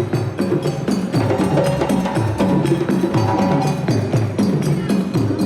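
African-style parade drum ensemble playing a fast, steady rhythm, with a sharp clicking, bell-like percussion part on top.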